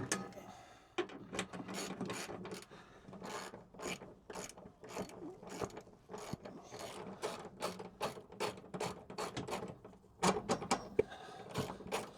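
Hand ratchet wrench clicking in runs of quick strokes, with short pauses, as a long fuel-tank bolt is undone by hand.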